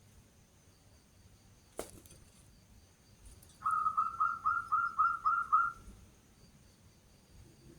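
Zebra dove (perkutut) cooing: a quick run of about eight short, even notes, about four a second, lasting a little over two seconds and starting near the middle. A single sharp click comes before it.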